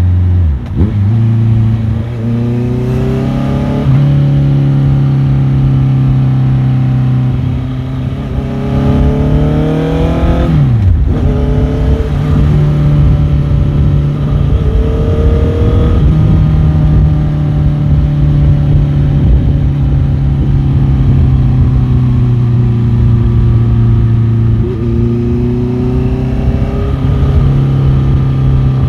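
Motorcycle engine under way on a ride, its pitch climbing as it accelerates and dropping sharply twice, about half a second in and about eleven seconds in, as the throttle is shut for a gear change, then running at a steady pitch.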